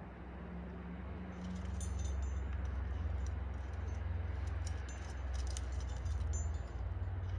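Metal climbing gear, carabiners and cams on a harness, clinking and jingling in irregular clusters from about a second in, over a steady low rumble of wind on the microphone.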